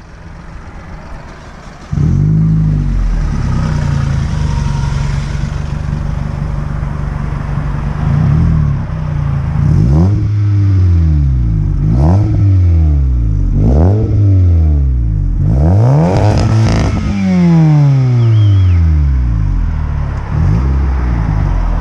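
Hyundai Tiburon's 2.0-litre petrol engine starting about two seconds in and idling steadily, then revved several times in short blips, each rising and falling back to idle, with a longer rev near the end.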